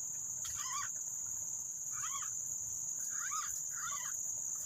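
A steady high-pitched insect drone with four short whistled notes that rise and fall, in the style of green pigeon (punai) calls, heard within the first four seconds.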